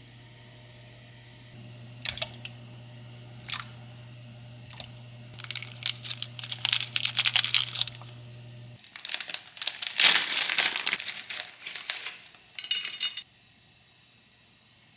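Crinkling and rustling, as of plastic packaging being handled, with a few sharp clicks, over a steady hum that cuts off suddenly about nine seconds in.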